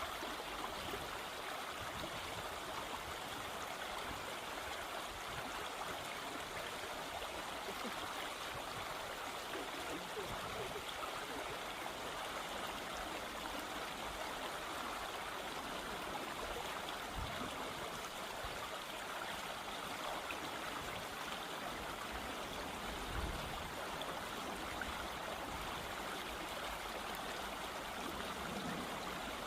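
Steady rush of flowing stream water, even and unchanging, with a brief low bump about two-thirds of the way in.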